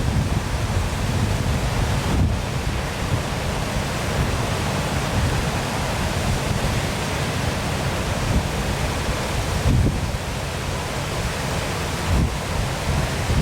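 Waterfall rushing in a steady, even wash of water noise, with a low rumble of wind buffeting the microphone that comes and goes.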